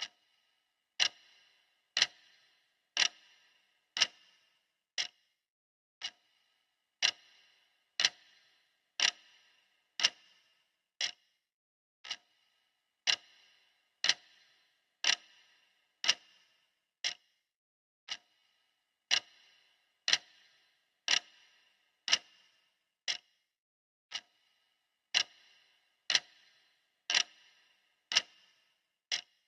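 Clock ticking steadily at one tick a second, some ticks softer than others.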